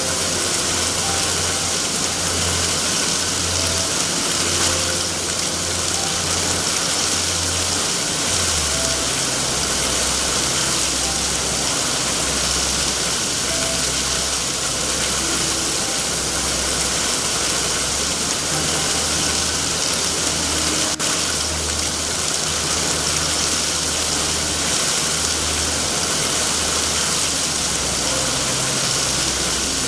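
Steady heavy rain with a continuous low rumble underneath it, and a single crackle about two-thirds of the way through.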